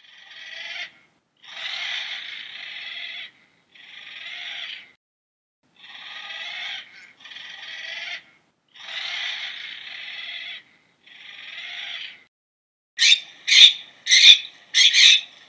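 A series of harsh, raspy animal calls, each lasting a second or two with short gaps between. Near the end they give way to a quicker run of short, louder calls.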